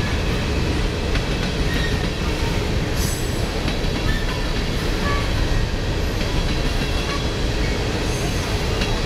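CSX coal train's open hopper cars rolling past: a steady rumble of steel wheels on rail, with faint clicks and a few brief high wheel squeaks.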